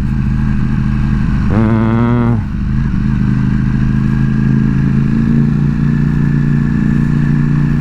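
Ducati Panigale V4S's V4 engine running steadily on the move, with a brief higher, wavering sound about a second and a half in.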